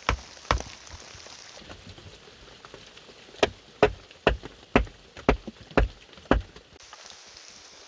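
Sharp knocks of a tool striking wood, about two a second: two strokes at the start, then a run of about seven after a pause of roughly three seconds. Steady rain hisses underneath.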